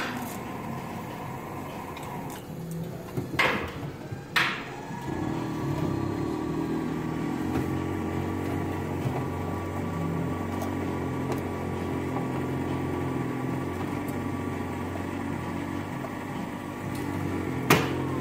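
Commercial coffee machine brewing a cup of French roast: a couple of knocks, then a steady motor hum of the machine working for about twelve seconds, ending with another knock near the end.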